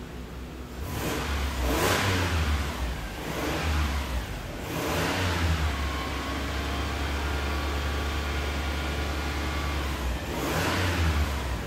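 Audi A4's engine being revved: several quick throttle blips in the first five seconds, then held at raised revs for about five seconds, and one more blip near the end.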